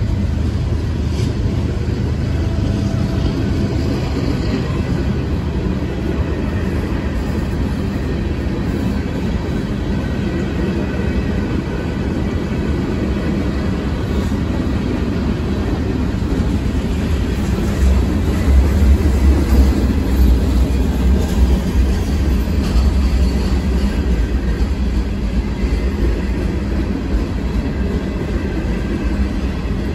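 A train passing steadily, with a louder low stretch about eighteen to twenty-two seconds in.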